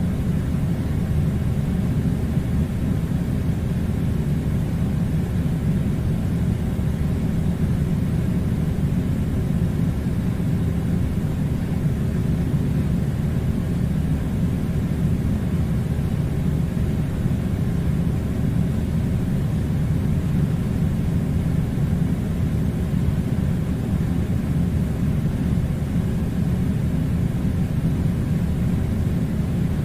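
Steady low rumbling noise, even and unbroken, with no changes or separate events.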